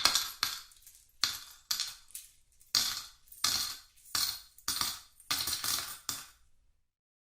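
Coins clinking and jingling in a series of about nine short metallic jingles, each with a sharp start and a quick fade, spaced unevenly around half a second to a second apart.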